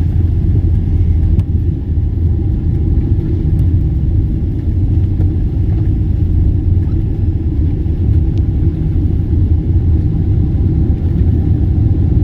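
Steady low rumble of a moving vehicle, heard from inside it, with no marked changes.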